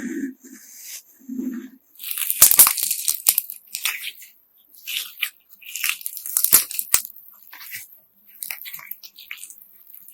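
Homemade slime mixed with coloured sand being squeezed and pressed by hand, giving crunchy, crackly sounds in three bouts with softer squishing between.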